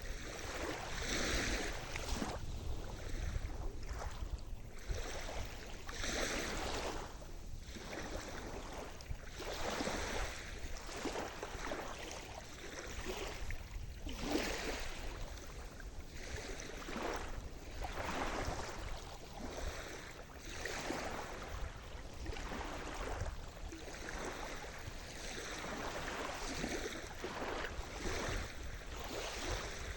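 Sea surf: small waves washing in and breaking over and over, each swell of hiss rising and falling every second or two over a steady low rumble.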